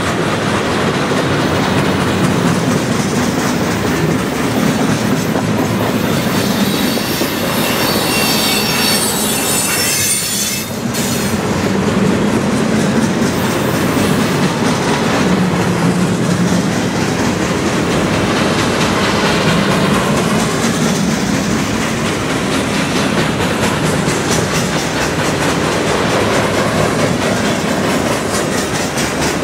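Freight cars of a passing CN train, centerbeam lumber flatcars and then open hoppers, rolling by close at speed: a steady rumble and clatter of steel wheels on rail, with a high wheel squeal for a few seconds about a quarter of the way through.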